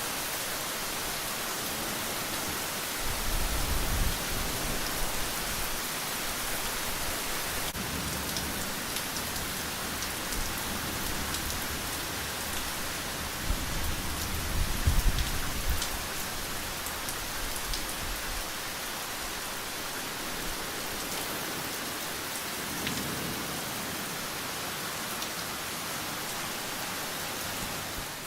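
Steady rain falling, a dense hiss flecked with drop ticks. Low rolls of thunder rumble through about three seconds in and again around thirteen to sixteen seconds in, with a fainter rumble near the end.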